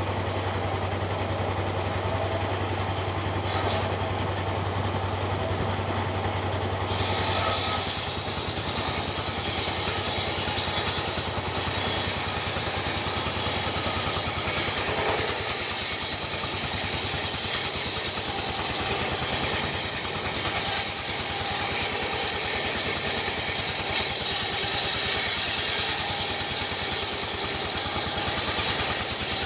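An engine running steadily. About seven seconds in the sound changes: the low hum drops away and a brighter, hissing sound takes over.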